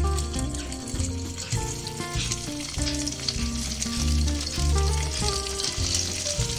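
Paneer cubes sizzling and crackling in hot mustard oil in a pan, over background music with a bass line.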